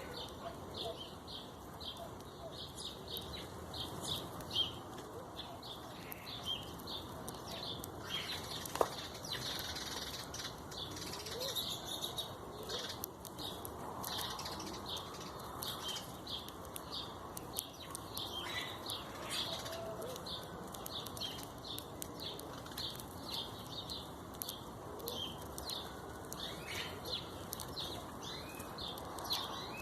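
Birds chirping: a steady run of short high notes, about three a second, with a few lower calls scattered through and one sharp click partway through.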